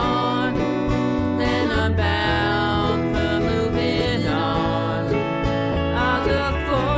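A band playing a country-folk song: strummed acoustic guitar and a steady bass line under a singing voice, with no drums.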